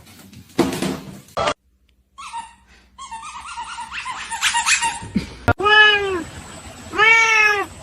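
A cat meowing twice near the end, two long calls that rise and fall in pitch. Short scuffling and knocking noises and a sharp click come first.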